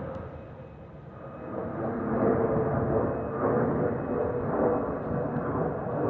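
Airbus A320 jet noise with the type's steady whistle from the fuel overpressure protector (FOPP) vents under the wings. The whistle holds one pitch, with a fainter higher tone above it, over a rushing rumble that dips about a second in and then swells again.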